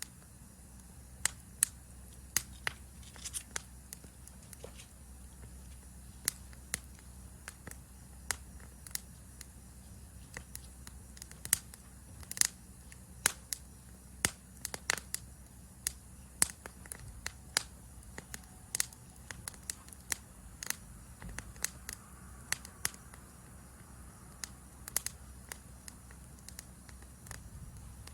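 Wood campfire crackling: irregular sharp pops and snaps, sometimes several close together, over a low steady rumble.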